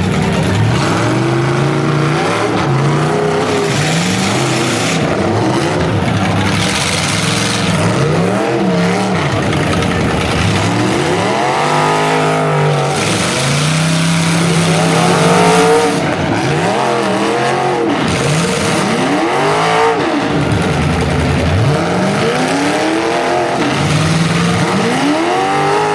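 Several demolition derby cars' engines revving hard and falling back again and again, overlapping one another, over a steady low engine drone.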